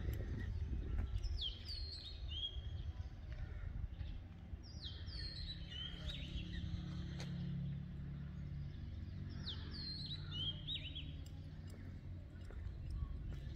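A songbird singing short phrases of a few falling whistled notes, three times about four seconds apart, over a steady low rumble.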